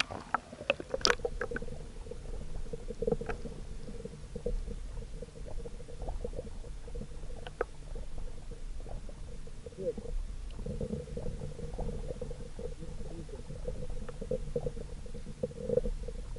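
Muffled underwater sound picked up by an action camera held submerged in a pond: a steady low rumble with scattered clicks and knocks, several sharp ones in the first couple of seconds.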